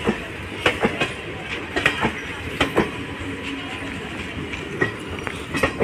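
Passenger train coaches rolling past, their wheels clacking over the rail joints in sharp single and paired clacks about every second, over a steady rumble.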